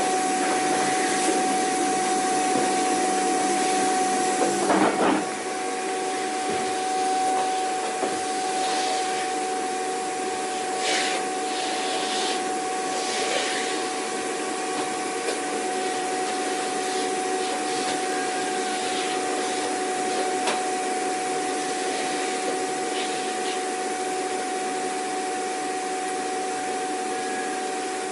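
Vacuum cleaner running steadily, a whine over a constant rush of air. About five seconds in, its lower part drops a little, and a few brief noises are heard a little later.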